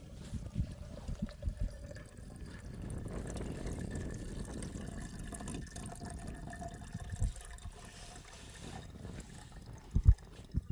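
Running water, with a few dull thumps scattered through it; the loudest two come close together near the end.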